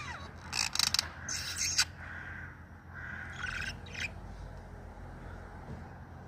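Small pet parrot calling in two runs of scratchy chirps: a run of calls in the first two seconds, opening with a quick falling whistle, then a shorter run about three seconds in.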